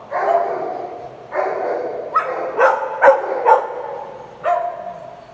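Dogs playing together, barking and yipping: three drawn-out calls of about a second each, with a quick run of short barks in the middle.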